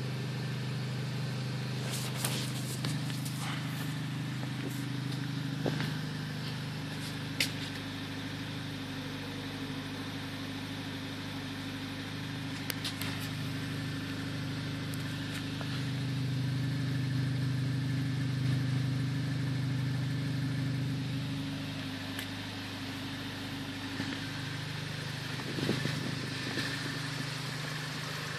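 Car engine running through a 76 mm exhaust with one muffler and one MG Race resonator, holding steady at a low speed. It gets a little louder for a few seconds past the middle, and there are a few sharp clicks.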